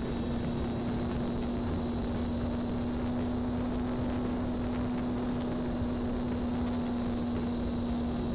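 Homemade RC plane's electric motor and propeller running at a steady speed: an even hum with a high whine above it, over a low rumble.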